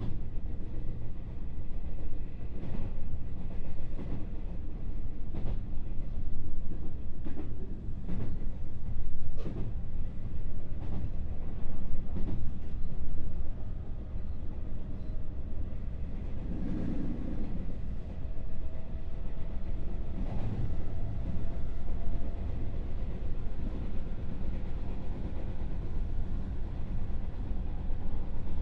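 Interior running sound of a JR West 221-series electric multiple unit, heard binaurally inside the motor car KuMoHa 221-67: a steady low rumble with wheels clacking over rail joints at irregular spacing through the first half. In the second half the ride is smoother, with a faint tone rising slowly in pitch.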